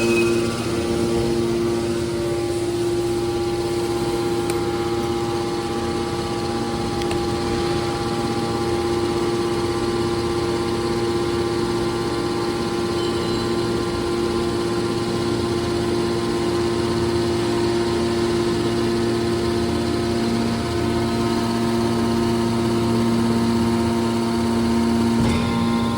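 Horizontal aluminium can baler running: a steady machine hum of constant pitch.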